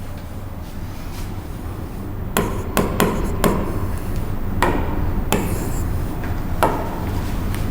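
A series of sharp, irregular knocks, about seven of them, starting a couple of seconds in, over a steady low hum.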